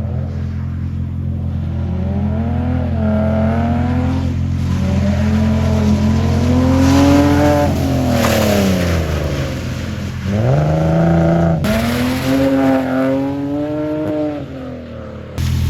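Car engine revving hard, its pitch climbing and falling several times over a steady low drone, with abrupt jumps in the sound where the footage cuts.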